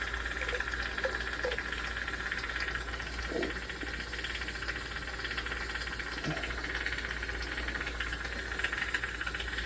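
Jeweler's soldering torch flame hissing steadily while solder is worked into a hollow chain link, with a couple of faint light taps.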